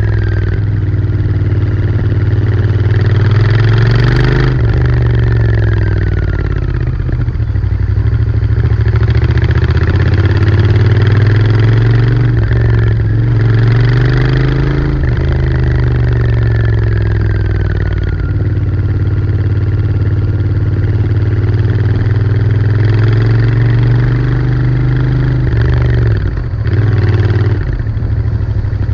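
Royal Enfield Interceptor 650's 648 cc parallel-twin engine running through its stock exhaust. The revs climb and fall back again and again.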